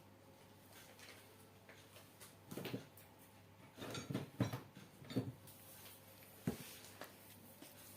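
A few short knocks and clatters, like small hard parts or tools being handled and set down, in a small quiet room; the loudest comes about four and a half seconds in.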